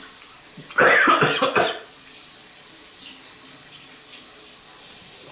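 A person coughing, a short fit of several coughs packed into about a second, over a steady background hiss.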